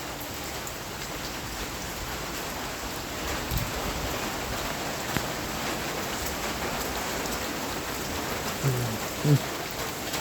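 Steady rain falling on the ground and standing water, not even raining that hard. Two brief bits of a man's voice near the end.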